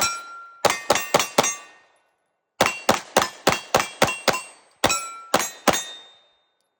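Semi-automatic pistol fired in quick strings of shots, about sixteen in all in three bursts, with metallic ringing after the hits that is typical of steel targets being struck.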